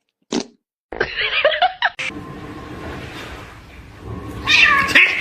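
A cat yowling, with a long wavering call about a second in and another call near the end.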